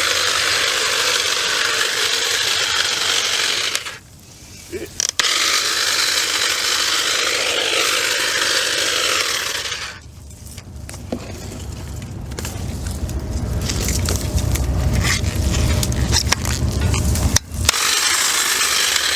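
Ryobi 18-volt cordless saw running and cutting through thick vines, in two long bursts with a brief stop about four seconds in. It stops near the halfway point, followed by a growing low rumble and scraping as the cut growth is worked loose.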